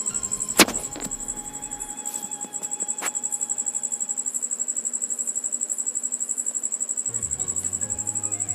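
Steady, high-pitched chirping of crickets, with one sharp click about half a second in and another about three seconds in.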